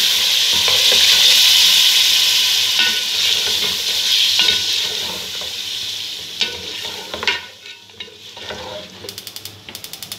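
Mutton and yogurt masala sizzling in an aluminium pot while a spatula stirs it. The sizzle is loud at first and dies down after about six seconds, leaving scattered taps and scrapes of the spatula against the pot.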